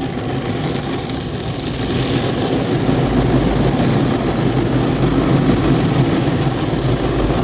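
Istobal Flex5 car wash top brush spinning and scrubbing over a car's hood: a dense, steady washing noise, with a low rumble that grows about three seconds in.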